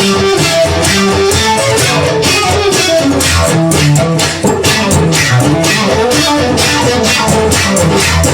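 Instrumental break in a song with no singing: guitar and bass guitar playing over a steady, even beat.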